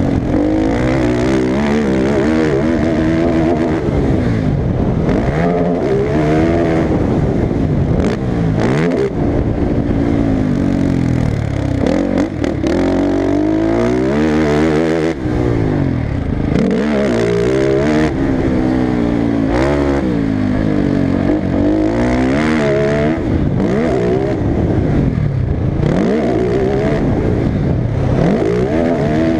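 Motocross racing engine revving hard, its pitch climbing and falling back again and again as the throttle is worked and gears change around the track.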